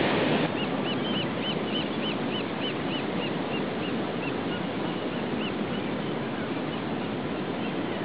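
A bird calling a fast series of short, high, arching notes, about three a second, for some five seconds, over a steady rushing background noise.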